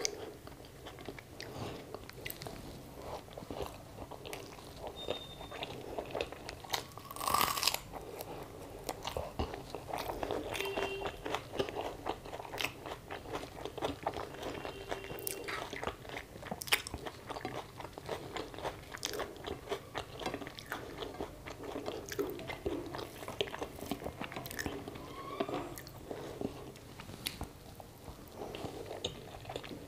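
Close-up chewing and crunching of a mouthful of rice eaten by hand with fried potato (aloo bhaja), with many small wet mouth clicks and crackles and one louder crunch about seven seconds in.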